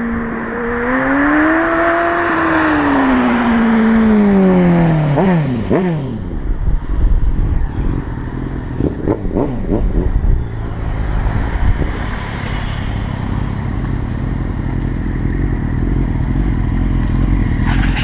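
Sport motorcycle engine passing, its note rising and then falling over the first few seconds, followed by a few quick throttle blips and then a steady low rumble.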